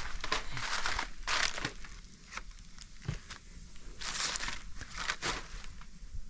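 Irregular crunching and rustling, in bursts of a second or so; the loudest come near the start and again about four seconds in.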